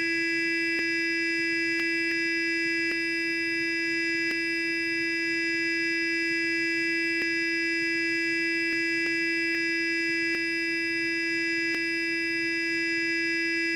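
Sonic electric toothbrush running on and on: a steady, unchanging buzz at one pitch with bright overtones.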